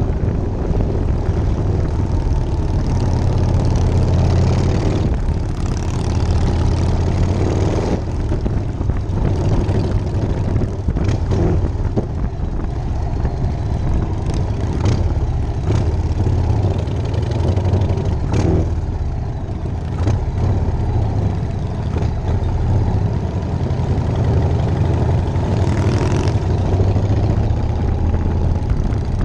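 1999 Harley-Davidson Night Train's V-twin engine running under way, a steady low rumble with the rush of riding noise above it and a few brief knocks.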